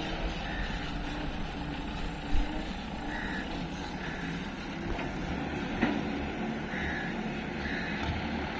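Heavy diesel machinery engine running steadily, with a few short high beeps and occasional knocks.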